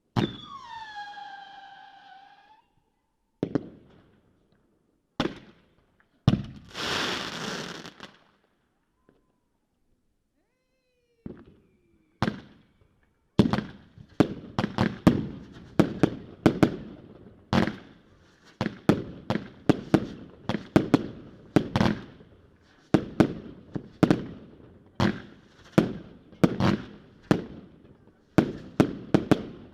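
Consumer fireworks going off. It opens with a sharp bang and a falling whistle-like tone of about two seconds. A few single bangs and a rushing hiss lasting about two seconds follow. From about halfway on there is a long, rapid run of sharp bangs, several a second, like a firework battery firing.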